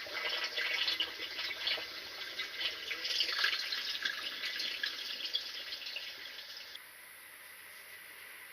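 Water running and splashing, a dense trickling noise that drops off sharply about seven seconds in, leaving a fainter hiss.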